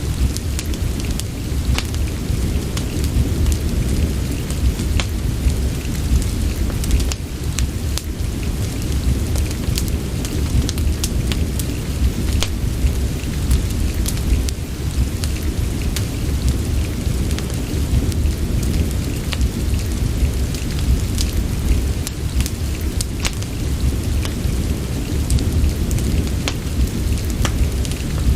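Steady rain ambience with a deep, constant low rumble, dotted throughout with scattered sharp crackles of a wood fire.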